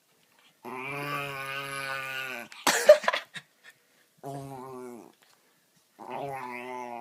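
A dog making long, even-pitched vocal calls, three in a row, with a short sharp bark about three seconds in, the loudest sound.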